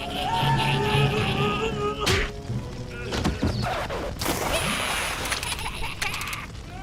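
Cartoon action-scene background music with fight sound effects: a sharp hit about two seconds in, then a string of clattering and crashing impacts with short whooshes.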